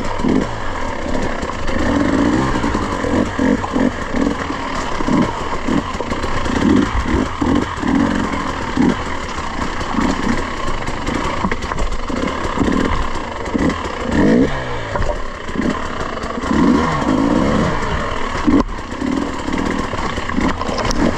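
Off-road dirt bike engine under way on a trail, the revs rising and falling over and over as the rider works the throttle.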